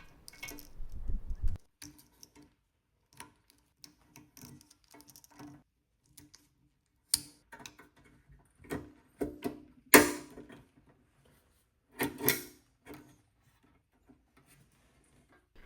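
Scattered light clicks, taps and clunks of parts being handled and fitted while reassembling a Gaggia Classic espresso machine, with a few louder knocks about seven, ten and twelve seconds in.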